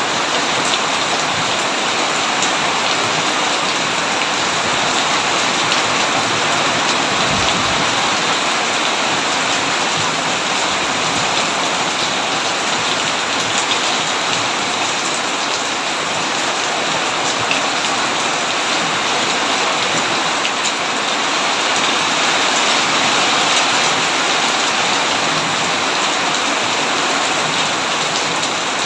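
Heavy rain falling steadily, with individual drop hits ticking through the constant hiss.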